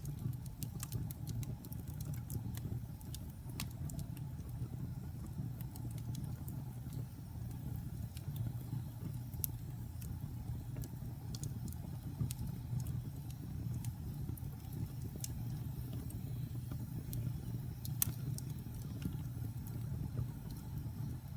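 Wood fire burning in a fireplace, crackling with frequent small, irregular pops over a steady low rumble; one sharper pop about 18 seconds in.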